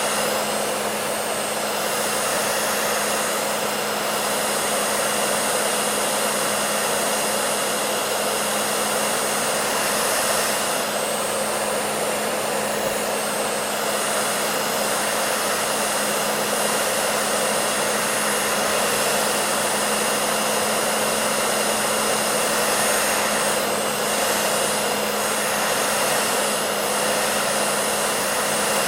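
Hair dryer running continuously: a steady rush of blown air over a constant motor hum, with no change in speed.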